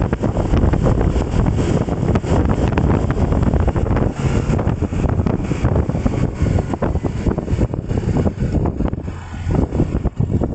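Wind buffeting hard on the microphone over the rumble of a moving ride, loud and steady, with a brief dip about nine seconds in.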